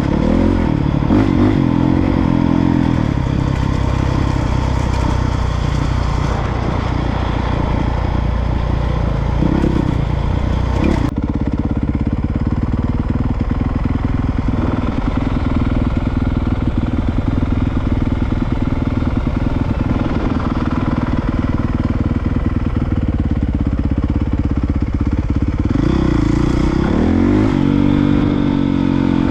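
Honda CRF450R dirtbike's single-cylinder four-stroke engine running under way on the trail, the revs rising and falling with the throttle a few times, most noticeably near the start, around the middle and near the end.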